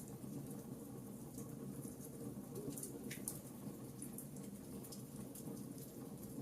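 Wood fire burning in a fireplace: a steady low rumble of flames with irregular small crackles and pops, one sharper pop about halfway through.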